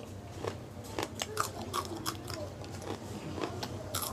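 Close-miked chewing of raw green chilli, with irregular crisp crunches and a fresh bite near the end.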